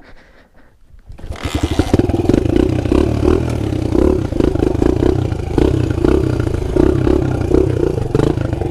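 Pit bike engine starting up about a second in, then running with an uneven, pulsing beat.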